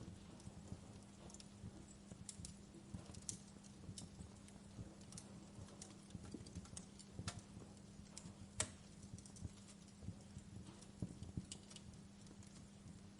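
Wood fire crackling: irregular sharp pops and snaps from burning logs, the loudest about two-thirds of the way through, over a faint steady low hum.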